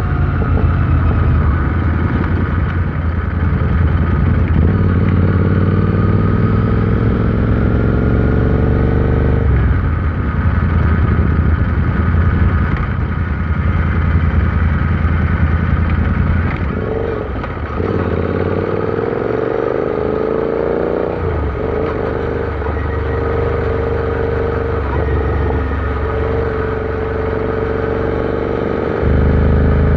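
Royal Enfield Interceptor 650's parallel-twin engine running under way. Its pitch climbs steadily and drops sharply about ten seconds in, as at a gear change. It falls away around sixteen seconds, climbs again to another sharp drop around twenty-one seconds, then holds fairly steady at cruising revs.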